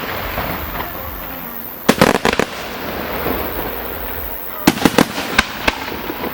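Aerial fireworks bursting close by: a cluster of sharp bangs about two seconds in, then another volley of bangs about five seconds in, with a steady crackle of glittering shells between them.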